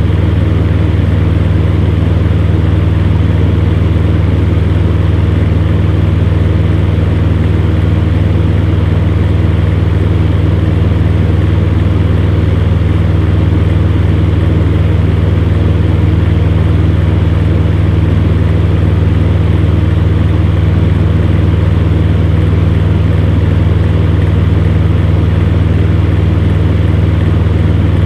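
Electric fan running steadily: a constant rush of air over a low, even motor hum.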